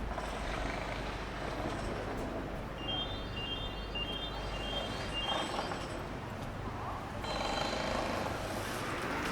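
City street traffic on wet roads: a steady hiss of passing vehicles with an engine rumble that fades about halfway through. A short electronic beeping tune sounds a few seconds in.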